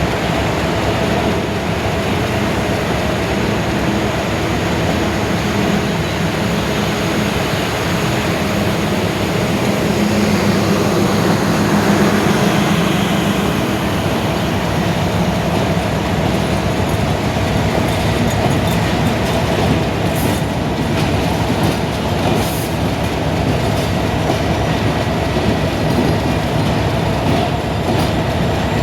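Passenger train running on the track, a steady rumble with wheels clattering over rail joints; it swells briefly about a third of the way in.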